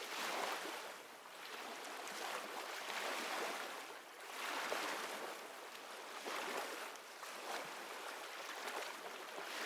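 Ocean waves washing, the rush of water swelling and fading every couple of seconds.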